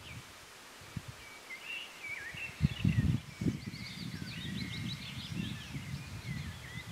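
A songbird singing a quick, warbling song of high twittering notes, over irregular low rumbles and crackles that are loudest a few seconds in.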